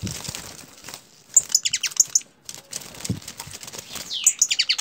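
A small bird singing: two bursts of rapid, high chirping notes that each sweep downward, the first about a second in and the second starting near the end, after a brief rustle.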